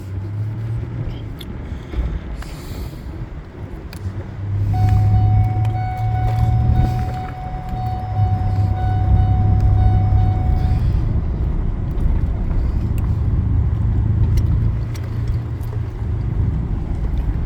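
A motor vehicle's engine running with a steady low rumble. A single steady tone sounds over it from about five seconds in until about eleven seconds in.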